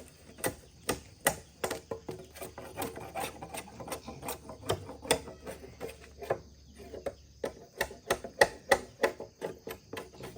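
Irregular sharp knocks and taps on wood or bamboo, about two or three a second, with the loudest strikes near the end.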